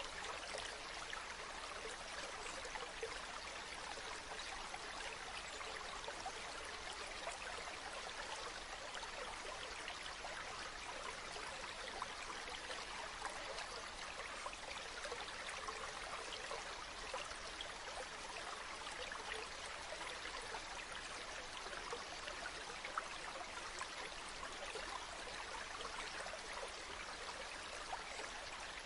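Running water from a small spring-fed stream, trickling and splashing steadily with many small splashes.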